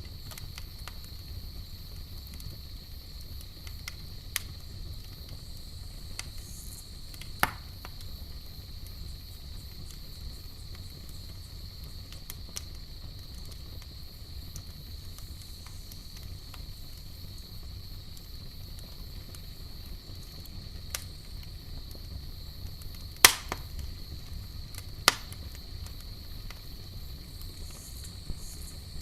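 Campfire crackling: a handful of sharp, scattered pops from the burning wood, the loudest about two-thirds through, over a steady low rumble of the fire. A steady high-pitched trill runs underneath.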